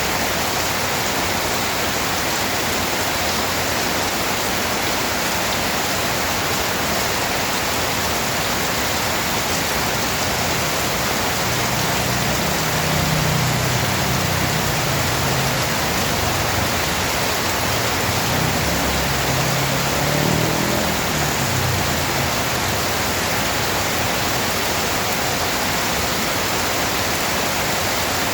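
Steady rain hiss. A low rumble swells up twice in the middle.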